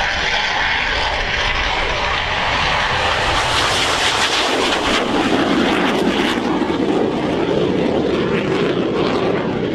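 Military display aircraft flying past: a loud, continuous engine roar whose sound shifts lower partway through as it passes, then cuts off suddenly at the end.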